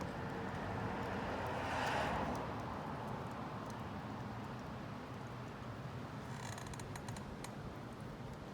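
Wood fire burning in a homemade solo-style can stove: a steady rush that swells about two seconds in, with a few faint crackles later on.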